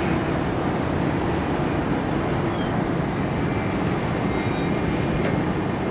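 Jet airliner engines, a steady rumble as a jet rolls out on the runway after landing.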